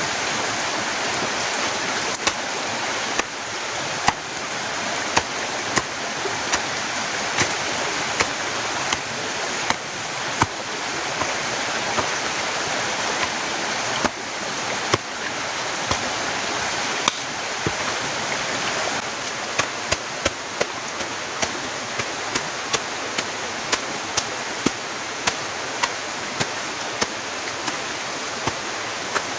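Heavy rain falling steadily, with sharp irregular taps scattered through it that come more often in the second half.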